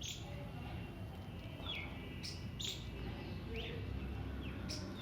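Small birds chirping: several short, sharp chirps that drop quickly in pitch, spaced a second or so apart, over a low steady background rumble.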